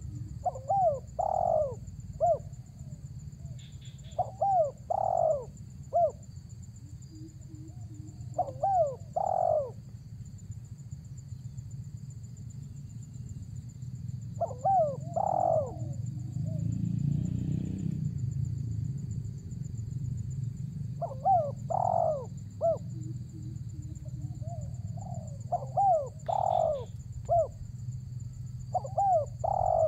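Spotted dove (tekukur) cooing: about seven phrases, each a short run of swooping coo notes, repeated every few seconds over a steady low hum.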